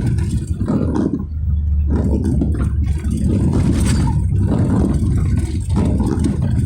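A car driving, heard as a loud, uneven low rumble that swells and dips every second or so.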